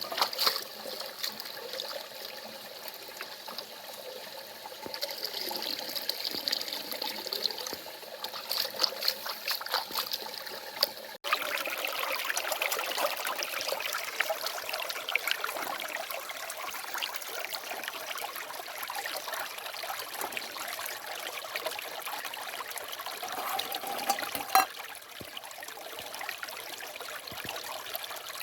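Running water with a steady trickle, and a few light clicks and knocks in the first part. The sound cuts out for an instant about eleven seconds in, then carries on.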